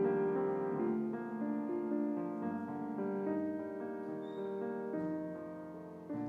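Slow instrumental piano music, held chords changing about once a second, with a fresh chord struck near the end.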